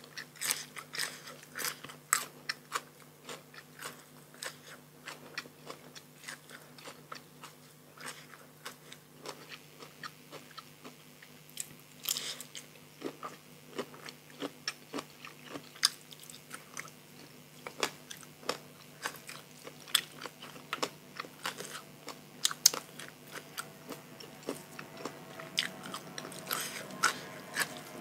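Close-up chewing and crunching: a person biting into and chewing fresh raw vegetables and rice noodles, with irregular crisp crunches and wet mouth clicks, some louder bites scattered through.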